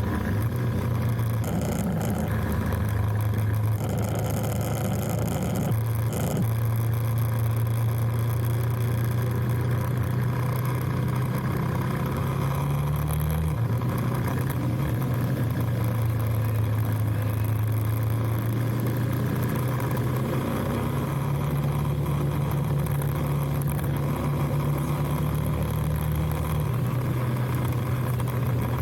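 Motorcycle engine running at a steady speed on a ride, its pitch stepping up and down a few times with the throttle.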